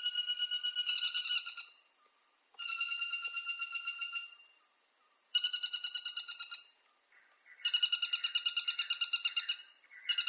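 A woodpecker calling in rapid rattling runs of sharp, ringing notes, about ten a second. Each run lasts about two seconds and the runs repeat with short gaps. In the second-to-last run a second, lower call overlaps.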